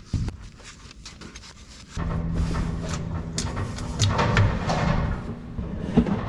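Light metallic clicks and knocks of tools being handled. About two seconds in, a steady mechanical hum with a rattling noise starts suddenly and keeps running, with a sharp knock near the end.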